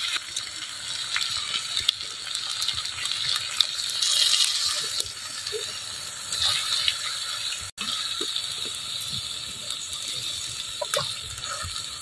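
Potatoes and masala frying in oil in a clay pot, a steady sizzle, while a ladle stirs and scrapes against the pot with scattered clicks.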